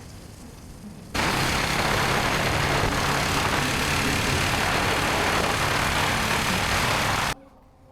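Wind rushing loudly over a helmet chin-mounted camera with a motorcycle engine running underneath while riding. It starts abruptly about a second in and cuts off abruptly near the end.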